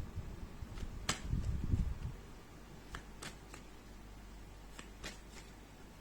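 Cards being handled: several sharp clicks, with a low rustling rumble between about one and two seconds in.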